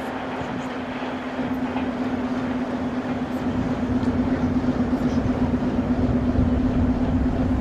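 Passenger coaches of a train rolling over station track and points, a steady rumble of wheels on rails with a steady low hum throughout, growing a little louder toward the end.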